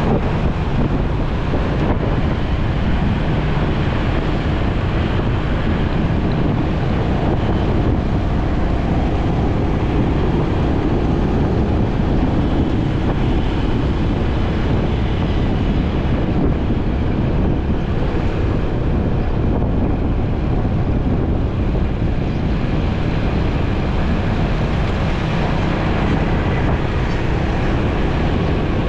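Steady wind rush on the microphone over the running engine and road noise of a motorcycle being ridden.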